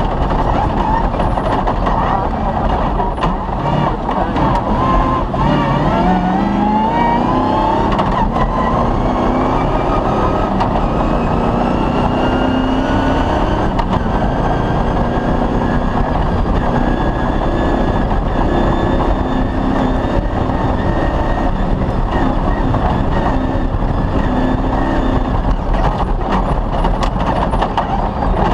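Off-road rally car driving fast: the engine climbs in pitch about six seconds in, then runs steadily at speed, under constant loud road and chassis noise.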